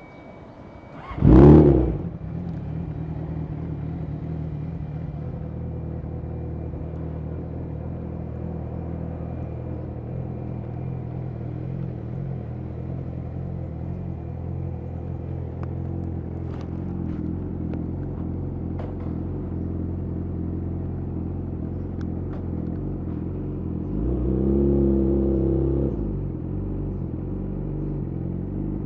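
Yamaha YZF-R6 inline-four with a de-catted Akrapovic slip-on exhaust starting up with a loud burst about a second in, then idling steadily. A short rev comes about three quarters of the way through, before it settles back to idle.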